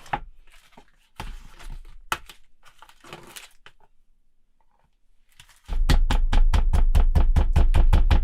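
A few seconds of scattered kitchen handling with rustles and sharp clicks, then rapid chopping on a cutting board, an even run of loud strokes at about five a second near the end.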